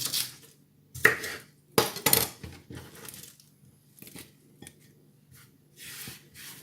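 Knife chopping lettuce on a cutting board: a few sharp, crisp cuts in the first two seconds or so, then lighter, scattered cuts and taps.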